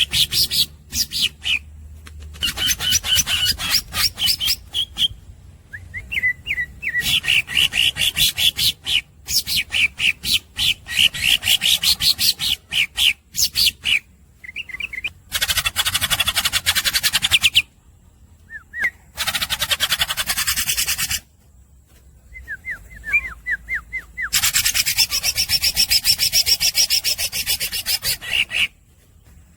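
Green leafbird (cucak ijo) singing without a break: fast runs of rapidly repeated sharp notes alternating with harsh, rasping chatter, with short pauses between phrases.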